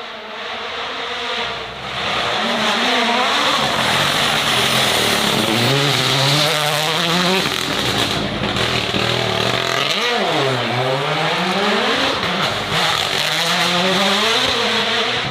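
Racing car engine accelerating hard through the gears. Its pitch climbs and drops back with each upshift several times, and about ten seconds in it falls sharply and climbs again.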